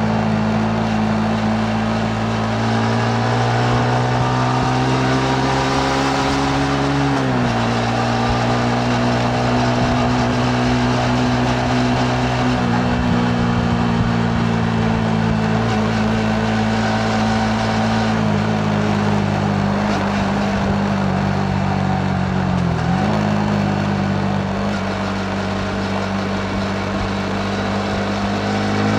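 Yamaha MT-15's single-cylinder engine pulling at steady revs under way, with wind and road noise. The engine note drops sharply about a quarter of the way in and dips again about three-quarters in, as at gear changes, then climbs near the end.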